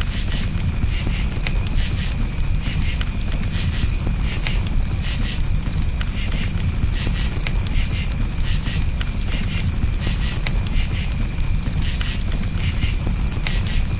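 Crickets chirping in quick pulsed trills over the scattered crackle of a campfire and a steady low rumble.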